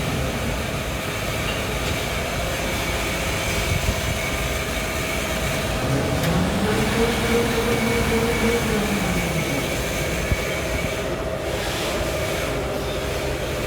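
Automatic pull-out tissue folding machine running with a steady mechanical clatter and hum. A pitched tone rises and falls again in the middle.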